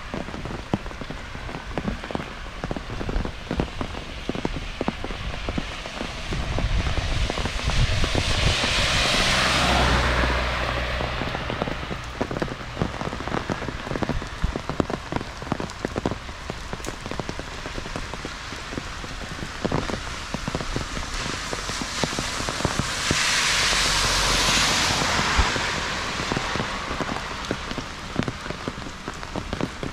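Heavy rain falling, a dense steady patter of drops, with two longer swells of louder hiss and low rumble, one about eight seconds in and another past the twenty-second mark.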